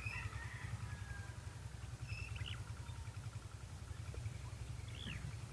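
Birds chirping in short high calls, two of them quick sweeps up and back down, about two and a half seconds in and near the end, over a steady low rumble.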